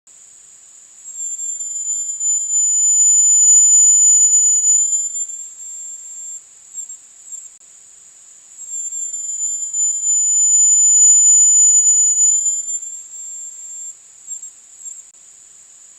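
Calls presented as Philippine tarsier ultrasonic calls: a steady, very high-pitched whine that swells and fades twice, each time joined by a lower whistle that slides up, holds and slides back down.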